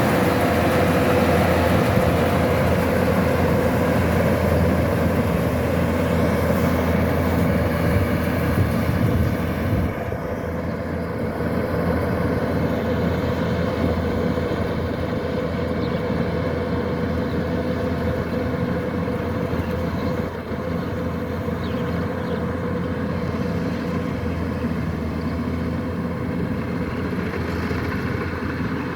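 Kubota DC-105X combine harvester running steadily, a dense engine and machinery drone that drops somewhat in level about ten seconds in.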